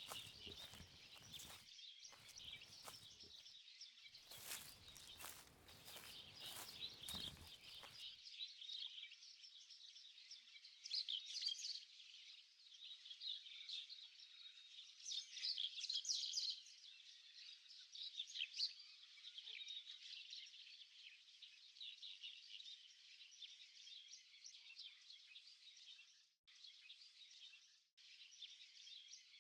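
Faint, dense, continuous chorus of high chirps and trills from swamp wildlife, growing louder in patches in the middle. Low rumbling bumps, like wind or handling noise, run through the first eight seconds.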